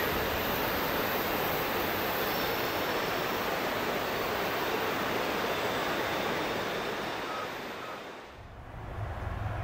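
Long CN freight train rolling past on the rails, a steady rushing noise of wheels on track that fades out about eight seconds in. Just before the end a new low rumble starts.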